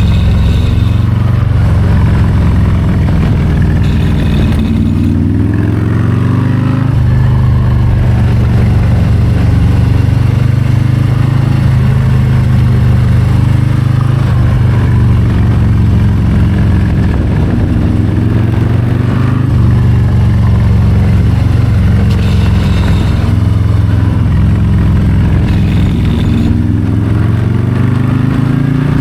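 Harley-Davidson Low Rider ST's Milwaukee-Eight 117 V-twin under way on a winding road, its note climbing as the throttle is rolled on and falling back off throttle, several times over.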